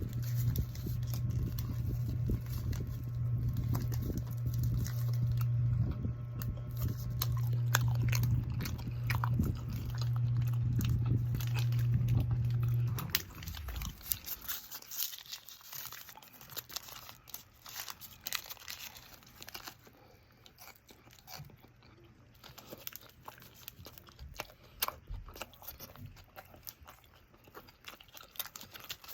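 A person biting and chewing a shawarma wrap close to the microphone: many short wet mouth clicks and bites. A steady low hum runs under the first half and cuts off about 13 seconds in.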